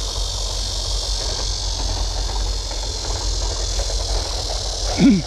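Insects droning in a steady high-pitched chorus over a low rumble, with a short falling voice-like sound near the end.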